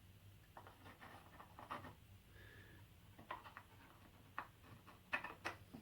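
Faint handling sounds: scattered light clicks and short scratching over a low steady hum.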